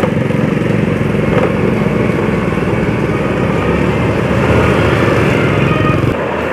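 Small motorcycle engine running steadily while riding, picked up by a phone microphone on the rider's chest, with road noise. The engine's low pulsing thins out about six seconds in.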